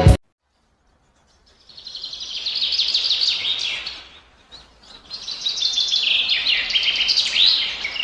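Lovebirds chattering: rapid, shrill, overlapping chirps that start about a second and a half in, drop away briefly near the middle, then pick up again.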